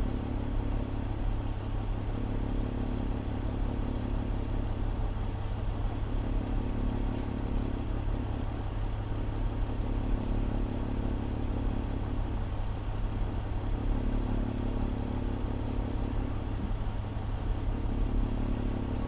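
Fire engine's diesel engine running steadily, heard from inside the cab, with a low hum that swells and fades every few seconds.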